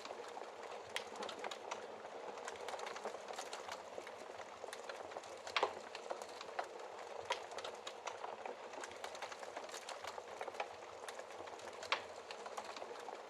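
Wood fire crackling in a fireplace: a steady hiss with many small snaps and pops, two louder pops about halfway through and near the end.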